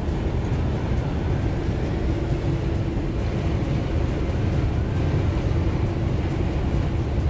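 Steady engine drone and road rumble inside a semi truck's cab while it drives along the highway.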